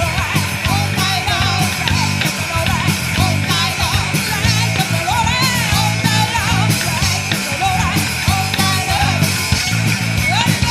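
Rock band playing loud, fast rock and roll: driving drums and bass under electric guitar with lead lines sliding up and down in pitch.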